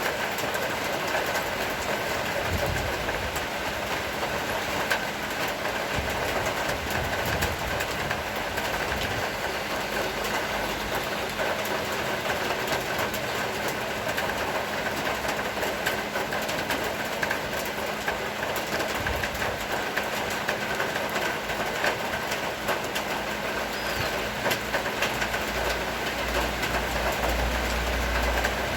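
Steady rain shower falling: an even hiss made of many small drop impacts, with a low rumble swelling near the end.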